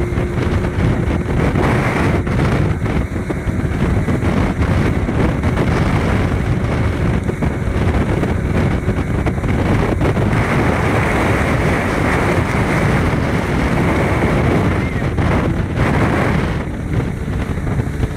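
Small open boat running under way on an Evinrude 40 H.O. outboard. Its engine and hull-on-water noise are mixed with heavy wind buffeting on the microphone, as a steady, loud rush with no breaks.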